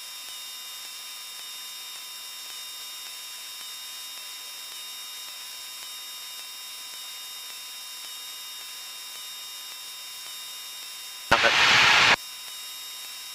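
Aircraft radio audio between transmissions: a steady hiss with a faint electrical whine of several steady tones. About eleven seconds in comes a loud burst of radio static, under a second long, as a transmission briefly opens the squelch with no voice.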